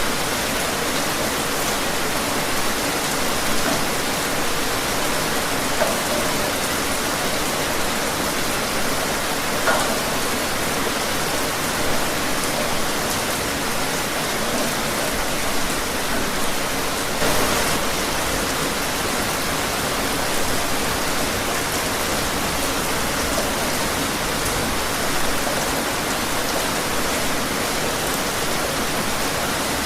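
Steady rain falling outdoors, an even hiss with scattered individual drips and splashes; a brief heavier gust of rain about 17 seconds in.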